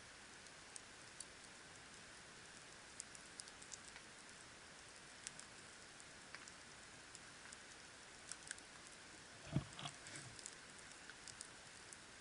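Campfire crackling faintly: scattered sharp snaps and ticks of burning wood over a steady low hiss, with one louder pop about nine and a half seconds in.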